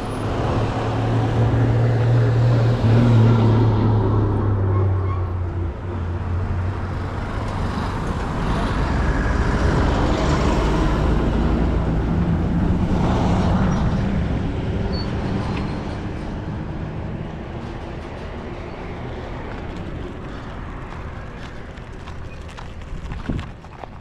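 Road traffic: a motor vehicle's engine drones for the first few seconds, then vehicles rush past and the noise fades away toward the end.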